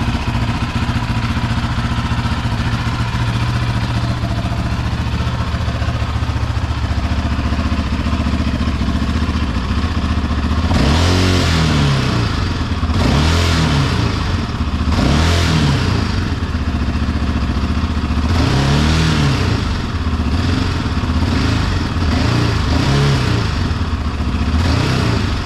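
700cc ATV engine idling steadily on its stock exhaust, then revved in a series of short throttle blips from about halfway through. It is running well after sitting unused for a long while, in the owner's judgement.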